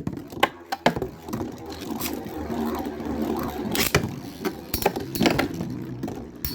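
Two metal Beyblade spinning tops whirring around a plastic stadium, clashing with sharp clicks and knocks every so often.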